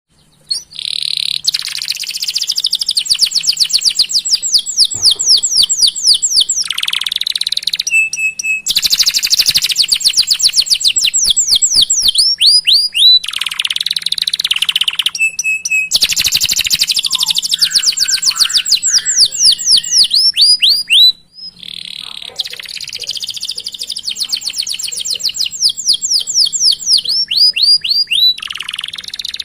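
Domestic canary singing loud, long rolling phrases of rapid repeated chirps, four phrases of several seconds each with short breaks between, some ending in a brief steady whistle.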